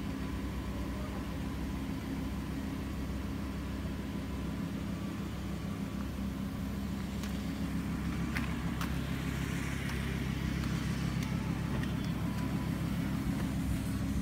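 Lamborghini Huracán's V10 engine idling steadily while the car stands still. A few light clicks come about eight seconds in.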